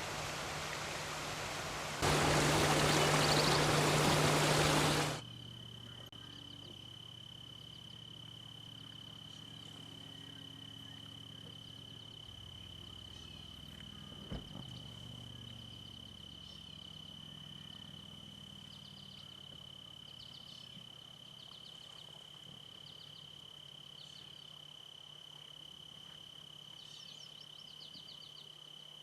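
Running water, an even hiss that cuts off abruptly about five seconds in. Then quiet outdoor background with a steady high-pitched whine and short faint chirps repeating, and a single click about 14 seconds in.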